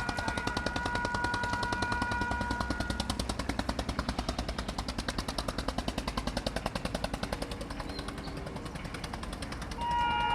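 Express passenger train passing at speed: a fast, even clatter of wheels over the rail joints, about nine beats a second. The train's horn sounds for the first few seconds, then cuts off, and a horn sounds again near the end.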